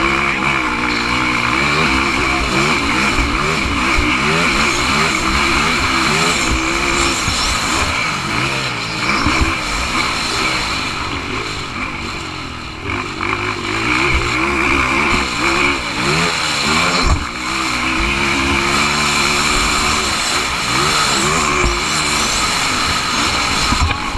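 Several motocross motorcycle engines racing, revving up and down over and over as the bikes ride the track.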